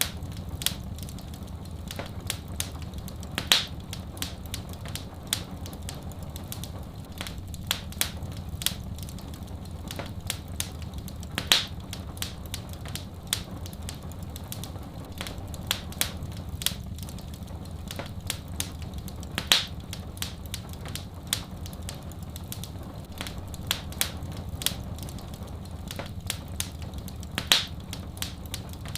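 Wood fire in a fireplace crackling, with many small sharp pops and a louder pop about every eight seconds, over a steady low rush.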